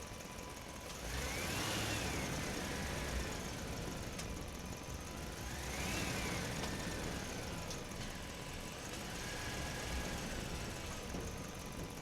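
Small toy motor running with a whine that rises and falls in pitch three times, over a steady mechanical hum.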